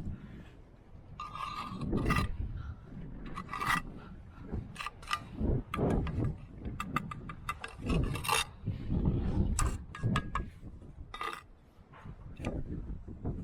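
Masonry work by hand: a steel trowel scraping mortar, with irregular knocks and clinks of bricks being handled and set.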